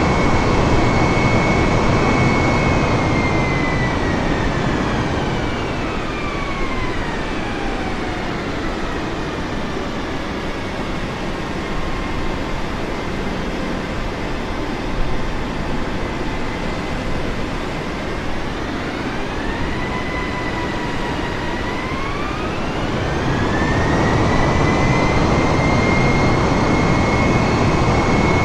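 Jet airliner engines during landing: a loud rush with a high whine that falls as thrust comes back, stays low, then rises again about twenty seconds in as the engines spool back up.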